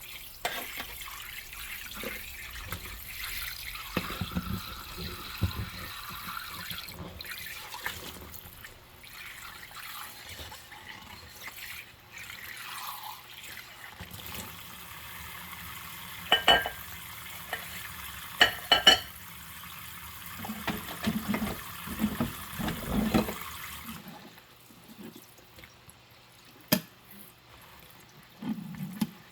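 Tap water running into a kitchen sink while dishes are washed by hand in rubber gloves, with a few short, sharp, ringing sounds from the dishes and gloves in the middle. The water stops about five seconds before the end, followed by a single sharp click.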